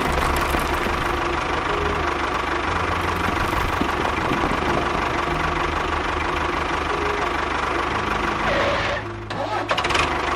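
An engine running steadily with a fast, knocking rattle. It dips briefly about nine seconds in, then picks up again.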